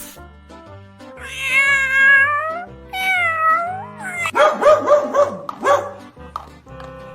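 Cat meowing: two long meows, then a quick run of about five short ones, over background music.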